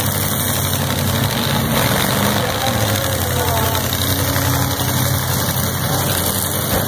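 Several demolition derby cars' engines running and idling together in a steady din, with no crashes heard.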